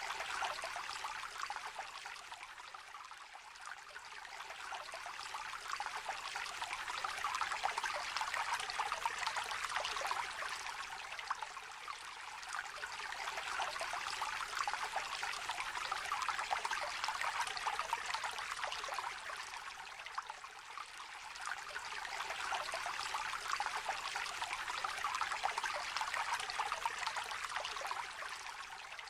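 Small river trickling and babbling steadily, its level gently swelling and easing every several seconds.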